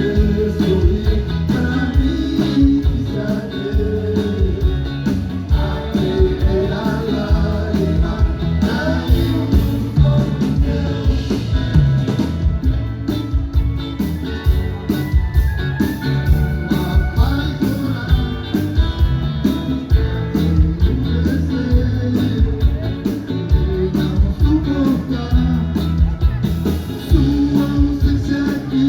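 Live band music with drum kit, bass and electric guitar playing a steady rock-style beat, with singing.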